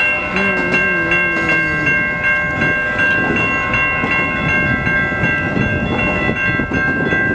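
Several electronic railroad crossing bells, Siemens low-pitch and high-pitch e-bells with a General Signals Type 3 e-bell, ringing together in rapid, even strokes over the rumble and clatter of a passing freight auto rack train. A low train horn sounds in the distance for the first couple of seconds.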